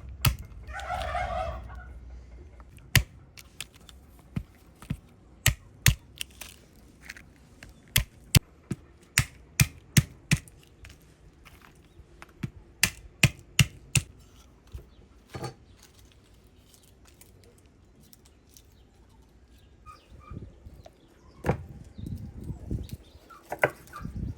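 Sharp, irregular clicks and taps, a few a second, stopping about fourteen seconds in, with a short chirping call about a second in; a run of duller knocks comes near the end.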